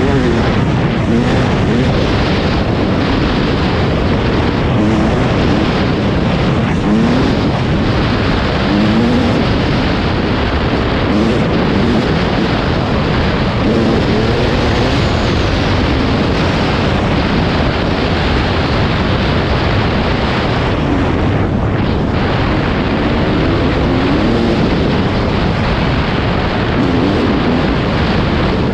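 Yamaha YZ250 two-stroke dirt bike engine revving up and down again and again while riding, heavy and noisy throughout.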